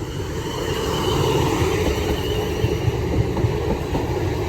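Class 450 electric multiple-unit train moving past at close range: a steady rumble of wheels on rail, with a thin high tone running through it.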